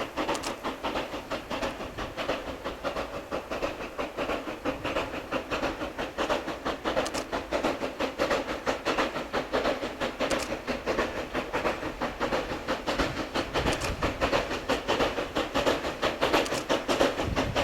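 Narrow-gauge C2 steam locomotive and its train running, with a quick, even, continuous beat.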